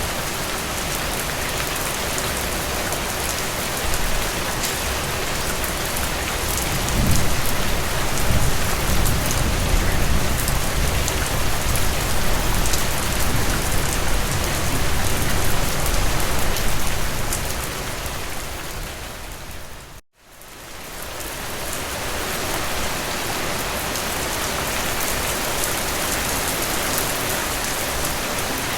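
Steady rain falling, with a low rumble swelling in about four seconds in and dying away by about seventeen seconds. About twenty seconds in, the whole sound fades out to silence and then fades back in.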